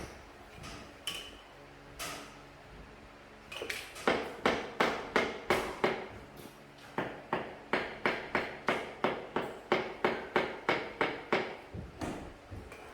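Hammering: sharp, ringing blows in quick runs, about three a second, with only two lone blows in a gap of about two and a half seconds early on before the steady strokes resume.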